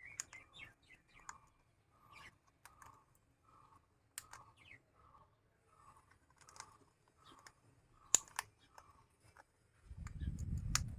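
Pet lovebird giving soft short chirps about every half second, mixed with sharp beak clicks and a few brief higher chirps. A low rumble comes in about a second before the end.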